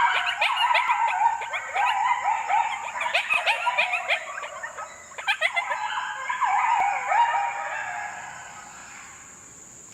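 Coyotes yip-howling in a group: many overlapping short yips and wavering howls that rise and fall in pitch, dying away about eight seconds in.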